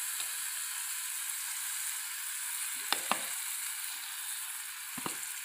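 Grated radish and tomato frying in oil in a kadai, a steady sizzle, with a steel spoon knocking against the pan twice about three seconds in and once more near the end.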